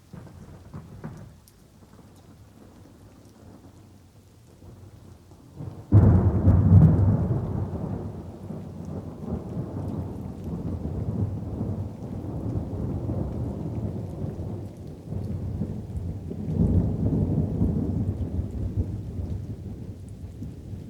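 Thunderstorm with light rain: a low rumble of thunder, then a sudden loud thunderclap about six seconds in that rolls on, swelling again near the end.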